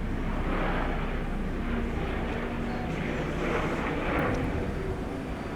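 Airbus H125 helicopter flying over, a steady low rumble with an airy wash that swells and fades.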